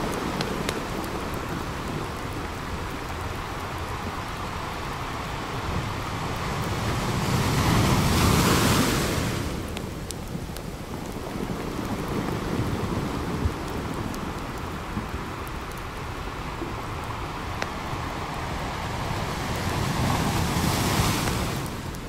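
Ocean surf washing on a beach, with two waves swelling and breaking, about eight seconds in and again near the end, over a wood campfire crackling with scattered sharp pops.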